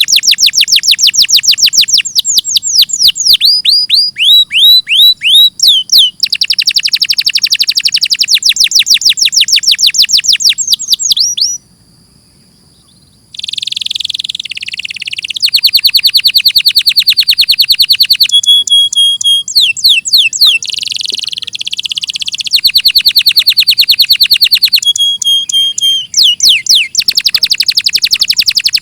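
Domestic canary singing: long rolling trills of rapid repeated notes, broken by strings of slower downward-sweeping notes, with a short pause a little before halfway before the trills resume.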